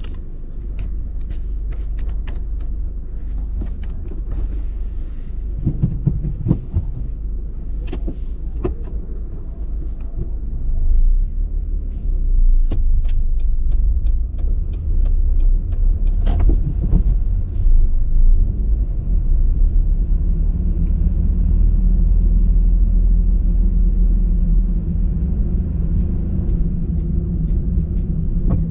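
Car being driven, heard from inside: a steady low rumble of engine and road noise, with scattered sharp clicks and ticks through the first half.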